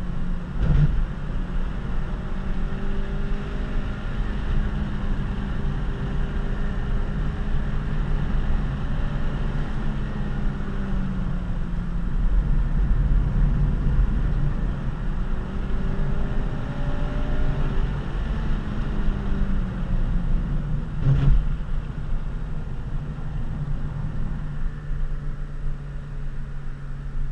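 Honda Civic FG2 coupe's four-cylinder engine heard from inside the cabin, its note rising and falling again and again as it is driven hard through bends, over a steady low road rumble. Two sharp knocks, about a second in and again about 21 seconds in.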